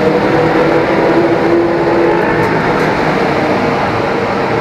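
Loud, steady running noise of a KRL electric commuter train moving through the station, with a steady hum-like tone in the first two seconds.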